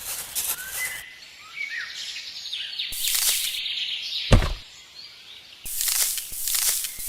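Birds chirping in short calls over outdoor noise with bursts of high hiss, and a single sharp thump a little over four seconds in.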